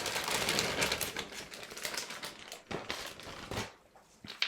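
Handling noise: a run of quick clicks and rustling, thinning out over the last couple of seconds and dropping out just before the end.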